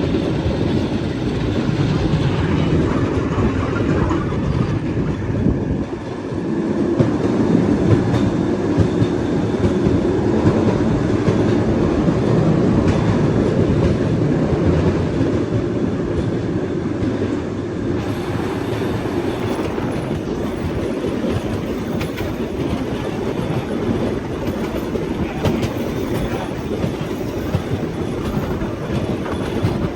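Bamboo train (norry) running along its track: a steady rumble and clatter of the wheels over the rail joints, dipping briefly about six seconds in.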